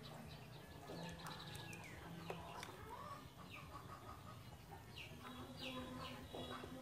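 Faint bird chirping in the background: short falling calls, repeated several times, with a few soft clicks from wires being handled.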